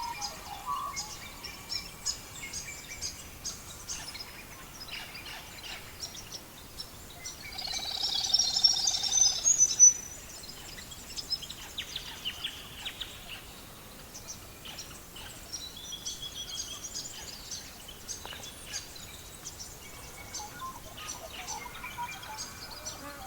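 Wood fire crackling with birds chirping and singing over it; about eight seconds in, a louder, denser bird call lasts about two seconds.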